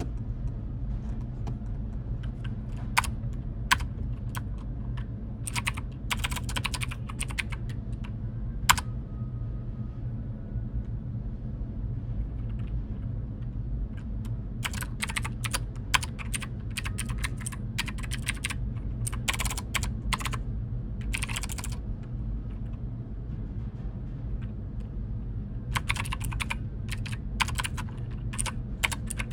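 Typing on a computer keyboard in bursts of rapid key clicks, with pauses between bursts, over a steady low hum.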